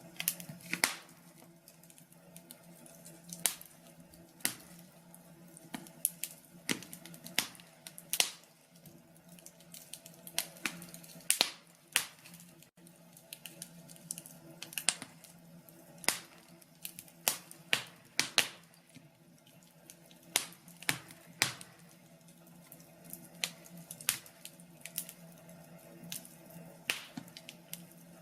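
Wood fire crackling in a fireplace: irregular sharp pops and snaps, some loud, at an uneven pace, over a faint steady low hum.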